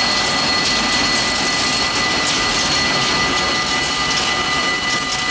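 Freight train of chemical tank wagons rolling past at steady speed, a loud, even rushing noise with a few thin, steady high-pitched tones running through it.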